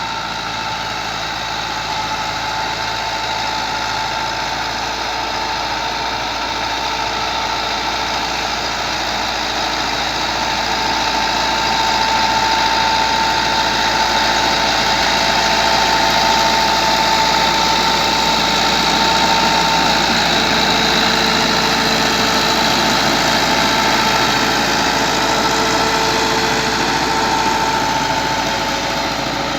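Massey Ferguson MF 385 tractor's four-cylinder diesel engine running steadily while working a rotavator. It grows a little louder in the middle and eases off near the end.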